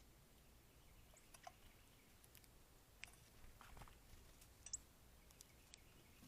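Near silence with faint, scattered clicks and taps, such as birds pecking and cracking seed at a feeder.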